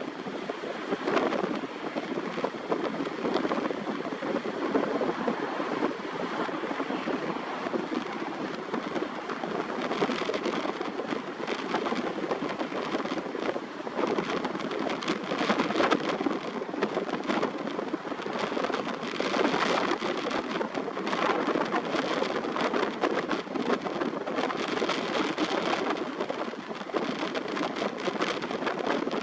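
Strong sea wind and surf at the shore: a steady rushing noise that swells and dips with the gusts.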